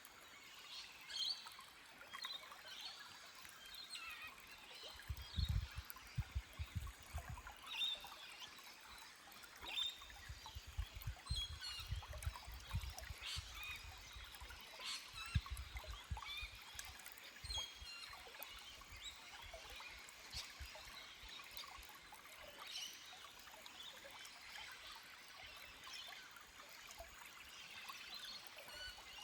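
Forest stream trickling and gurgling over rocks, with scattered short bird chirps throughout. Bursts of low rumble come and go in the first half.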